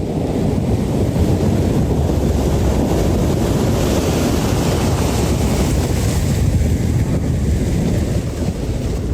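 Strong wind blowing hard across the microphone: a loud, steady, gusting rush, heaviest in the low end.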